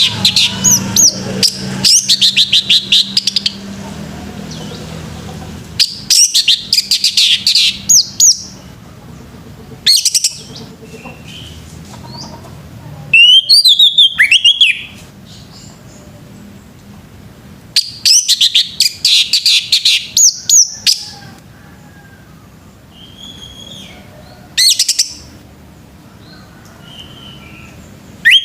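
Orange-headed thrush (anis merah) singing loud bursts of rapid, varied whistled and chattering phrases, each one to three seconds long, with pauses of a few seconds between them.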